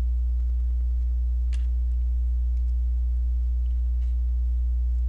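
Steady low electrical hum throughout, with a sharp click of plastic Lego pieces being handled about a second and a half in and a few fainter clicks after.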